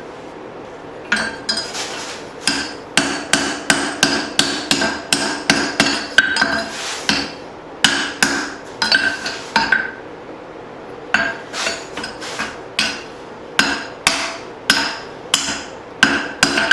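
Hand hammer striking a hot leaf-spring steel hatchet head on an anvil, about two to three ringing blows a second, in two runs with a short pause about ten seconds in: the head is being straightened after drifting the eye, with the metal cooling.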